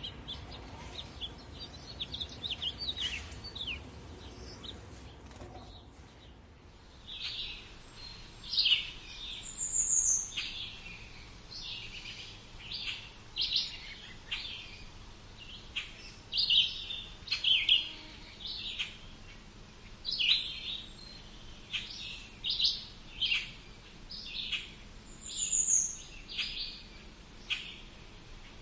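Songbirds chirping: a fairly quiet first few seconds, then short chirps repeated about once a second, with two high, falling whistle notes, one about a third of the way in and one near the end.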